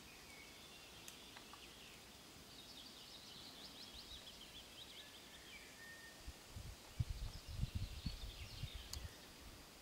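Small birds chirping and singing in short high phrases, with a cluster of low thumps and knocks from about six and a half to nine seconds in.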